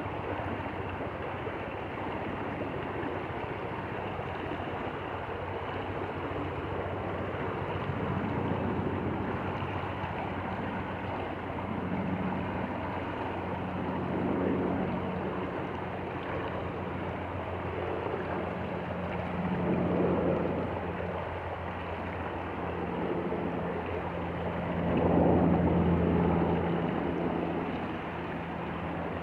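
Stream water flowing steadily, with a low steady hum beneath it and several louder swells, the strongest about 25 seconds in.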